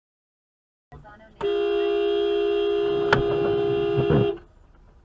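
Car horn held down for about three seconds, a steady two-note blare, with a sharp knock about halfway through.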